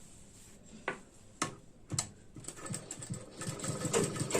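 A few separate clicks, then a sewing machine starts stitching about halfway through, running with a rapid, even chatter of needle strokes as the blouse lining is sewn onto the side seam.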